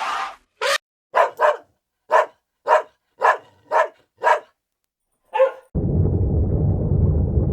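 A dog barking, about nine short, sharp barks in a loose series. About three-quarters of the way in, the barking stops and a steady low rumble takes over.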